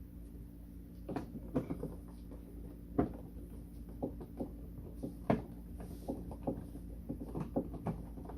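Irregular clicks and knocks of hard plastic parts being handled and fitted together, over a steady low hum.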